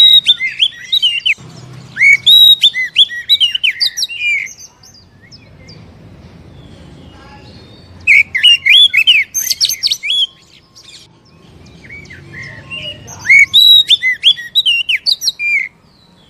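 Oriental magpie-robin (kacer) singing in three bursts of rapid, sharp chirping and whistled notes, each a few seconds long, with pauses of a few seconds between them.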